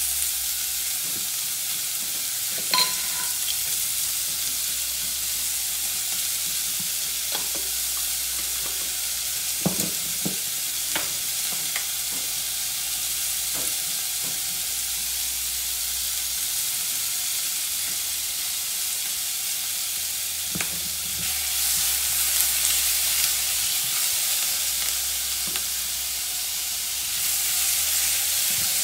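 Chicken pieces sizzling in hot oil in a wok, a steady high hiss, with a few light clicks and taps from utensils and spice jars. The sizzle grows louder about two-thirds of the way through and again near the end.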